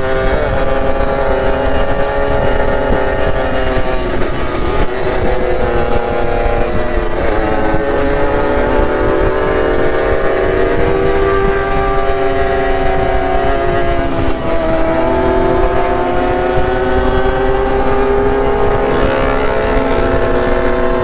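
Two-stroke motorcycle engine running on the road, its pitch falling and rising several times as the throttle is eased and opened, with a long climb in pitch in the second half. Steady low rumble of wind and road noise underneath.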